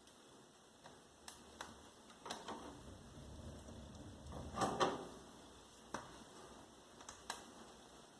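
Wood fire burning in a fireplace, with scattered sharp crackles and pops and a louder burst of crackling about four and a half seconds in.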